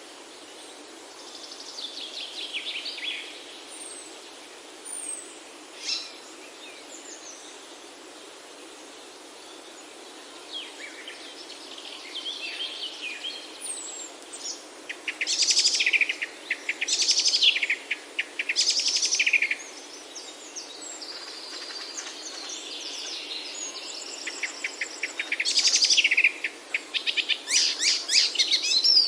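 Songbirds singing in fast, trilled phrases, several in a row around the middle and again near the end, over a steady background hiss.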